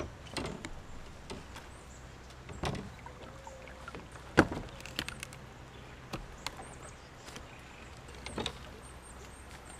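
Scattered knocks and bumps on a plastic kayak hull, as paddle and gear strike the boat, the sharpest about four and a half seconds in. Faint high chirps come in over the second half.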